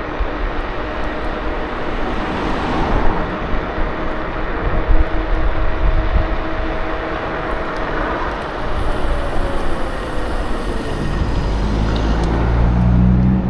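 KuKirin G2 electric scooter in motion: wind on the camera microphone and road rumble, with a faint motor whine that drops in pitch in the middle as it slows. Near the end a low hum from another vehicle grows louder.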